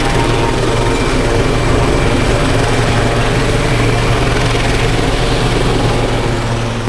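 Loud, steady drone of an aircraft engine with a deep hum, beginning to fade near the end.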